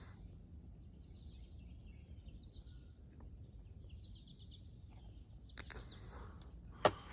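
A songbird giving short trilled calls again and again, each about a second apart, over a quiet outdoor background. Near the end a single sharp knock.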